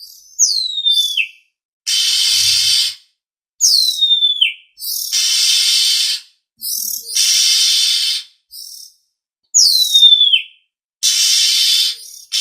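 Oriental magpie-robin (kacer) lure call: clear whistles sliding downward, three times, alternating with harsh hissing rasps about a second long, repeated with short silent gaps.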